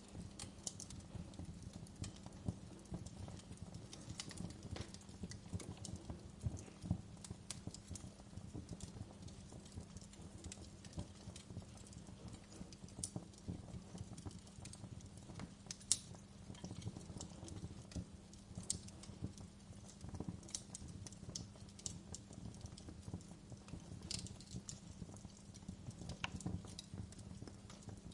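Wood fire crackling: irregular pops and snaps over a low steady rumble, with one sharper pop about halfway through.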